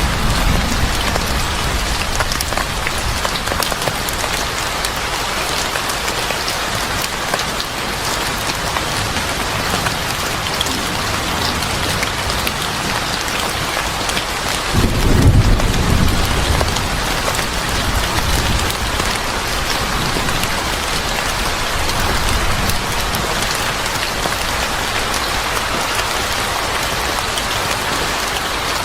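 Steady heavy rain pattering on a surface, with a low roll of thunder about halfway through.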